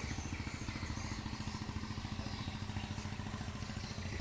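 Small single-cylinder engine running steadily, with an even, rapid pulsing beat.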